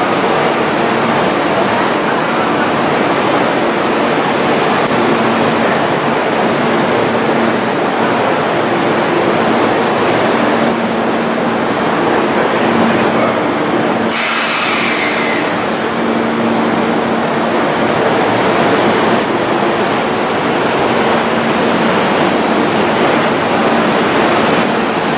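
Stationary HTR412 Blues trimodal train's onboard equipment running: a steady fan-like rushing noise with a low hum. A short hiss cuts in about 14 seconds in.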